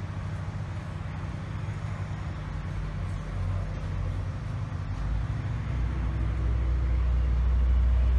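A low, steady rumble that grows louder, becoming strongest and most even in the last few seconds.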